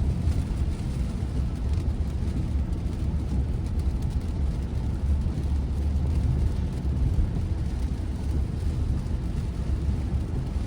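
Road and tyre noise inside an electric car's cabin at highway speed on a rain-soaked road: a steady low rumble with a faint hiss above it.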